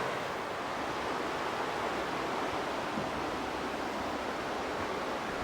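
River water rushing steadily into a swimming hole, a constant even hiss of flowing water.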